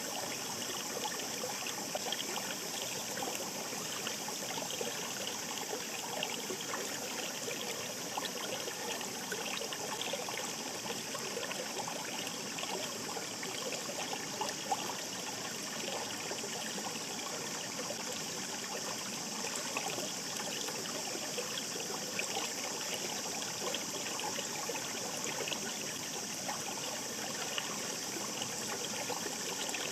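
Shallow mountain stream babbling over rocks: a steady rush of running water with many small gurgles and splashes.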